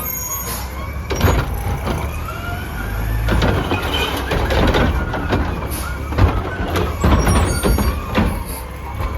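Curotto-Can front-loader garbage truck at work: its engine rumbles and rises and falls in pitch, with several sharp clanks and knocks as it handles the can.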